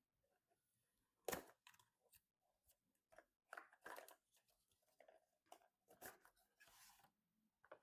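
Quiet handling of PC component packaging: scattered taps and clicks with short rustles and crinkles of cardboard and plastic. The sharpest knock comes just over a second in, and a longer rustle follows near the end.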